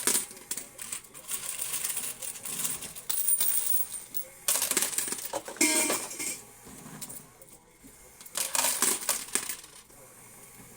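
Quarters clinking and clattering in a coin pusher game as coins drop in and are shoved along the shelf, in three bursts of rattling with short lulls between.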